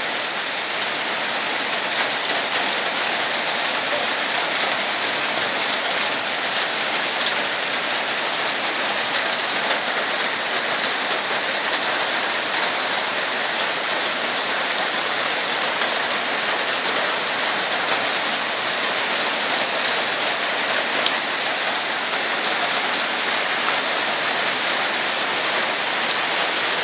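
Heavy rain falling steadily, a dense even hiss with the patter of many drops striking surfaces.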